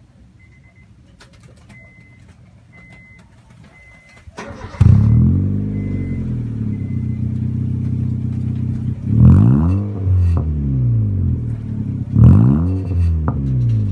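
A faint high beep repeating about once a second, then about four and a half seconds in a 2012 Honda City's engine is started and idles through an HKS small can aftermarket muffler. It is revved twice, rising and falling, about nine and twelve seconds in.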